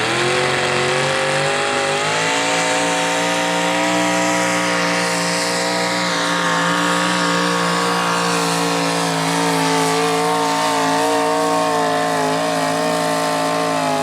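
Mini rod pulling tractor's engine screaming at full throttle under load down the pull. The pitch climbs in the first couple of seconds, holds high and steady, then the engine is shut off at the end and its pitch falls away.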